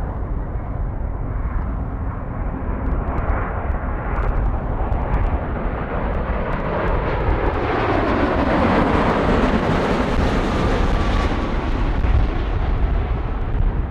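Jet airliner passing close by: its engine noise swells over several seconds and a tone glides down in pitch as it goes past, then eases off. A steady low rumble runs underneath.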